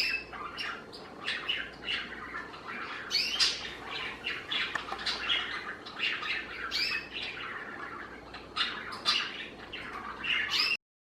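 Budgerigar chattering: a fast, continuous run of short chirps and warbles with a few louder squawks, which cuts off suddenly near the end.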